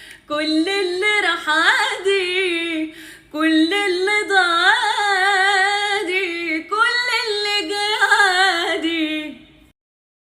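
A solo voice singing an Arabic song in long, ornamented phrases with a wavering melody. It breaks off abruptly about a second before the end.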